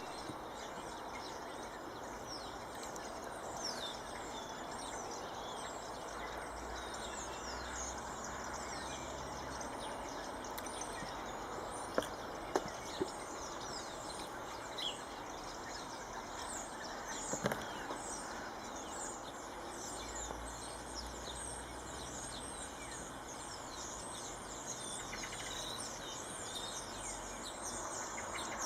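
Many small birds chirping and twittering in quick, high, falling notes over a steady background hiss, with a few sharp clicks around twelve and seventeen seconds in.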